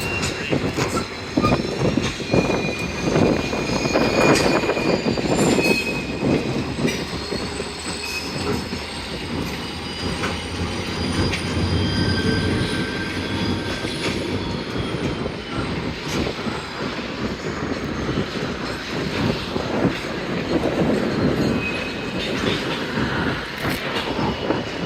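Freight cars rolling through a rail yard, their steel wheels squealing in several high tones that hold and slowly glide, over a steady rumble with scattered clicks and clanks.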